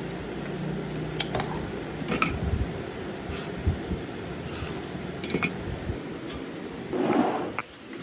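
Scattered light knocks and clicks of tools and wood being handled, over a steady low hum, with a brief rustling scrape about seven seconds in.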